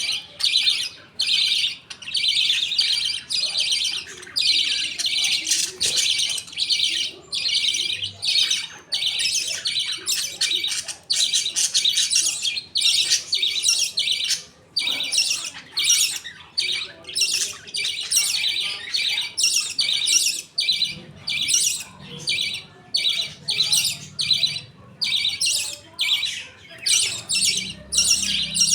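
A flock of budgerigars chattering and chirping continuously, rapid short calls one after another.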